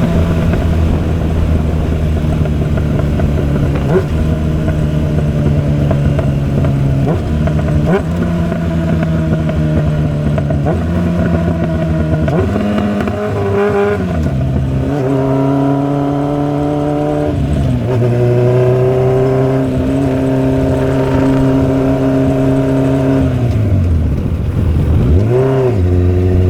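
Motorcycle engine running under way, its pitch holding steady and then dropping in steps as the rider shifts gears. Twice, about halfway through and again near the end, the engine note falls away and then climbs back up as the bike slows and pulls away again.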